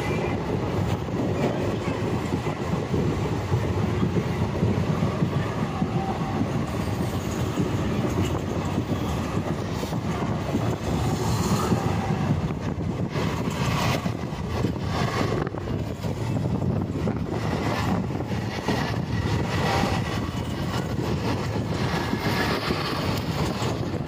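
Passenger train running at speed, heard from an open coach doorway: a dense, steady rumble of wheels on the rails, with a run of sharper clacks through the second half.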